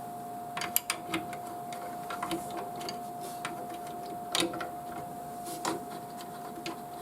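Irregular small plastic clicks and knocks as the mounting pins of a PC part are handled and pushed into place on a motherboard, with louder clicks about a second in and again near the middle.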